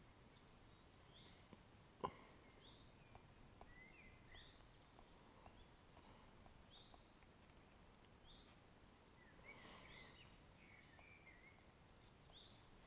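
Faint bird chirps: short rising calls repeated about once a second, with a few lower notes among them. Scattered small ticks of dripping water and one sharper tap about two seconds in.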